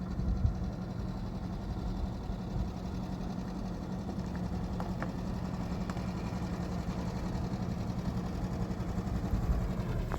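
An engine running steadily with a constant hum, cutting off near the end.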